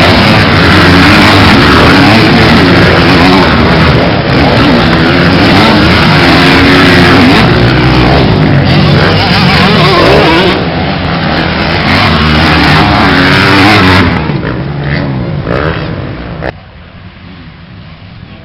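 Motocross motorcycle engines revving up and down through the gears, very loud and close. The sound fades about fourteen seconds in and drops off sharply about two seconds before the end.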